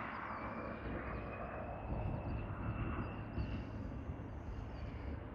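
Jet airliner engines heard at a distance: a steady high whine slowly rising in pitch over a noisy low rumble.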